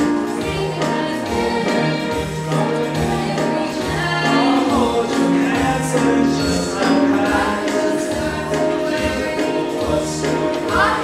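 Choir music with accompaniment: held, stacked chords changing every second or so, with no clear words.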